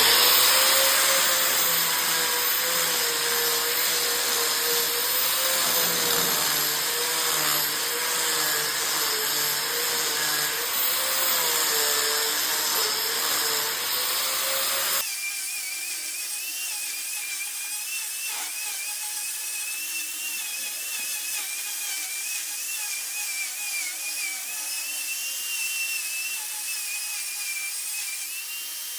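A high-speed rotary power tool whines as it carves wood, its pitch wavering as the load changes. About halfway through the sound switches abruptly to a thinner, higher whine.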